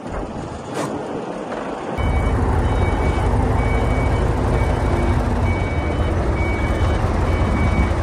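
Diesel engine of a heavy construction machine running loud, with its reversing alarm beeping evenly; the engine and beeps come in suddenly about two seconds in, after a quieter stretch.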